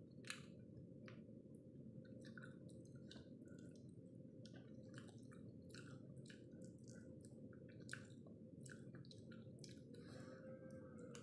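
Close-up mouth sounds of someone eating a cooked black-chicken foot by hand: faint wet chewing, sucking and lip-smacking, made of many short scattered clicks over a steady low hum.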